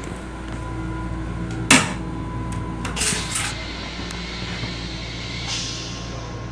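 Steady hum inside a Long Island Rail Road M7 railcar's restroom. A sharp click comes just under two seconds in, and a short rattle of knocks about a second later.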